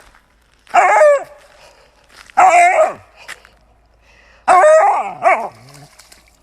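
A dog giving three drawn-out vocal calls, about two seconds apart; the last is the longest and slides down in pitch.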